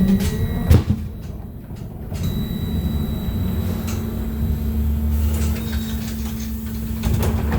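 Inside a BKM-321 trolleybus: steady electrical hum and cabin rumble, with a sharp knock under a second in and a thin high whine from about two seconds in.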